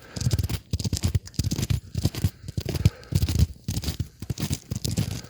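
Footsteps crunching on icy ground, a crackling crunch with a low thud at each step, about one step every two-thirds of a second.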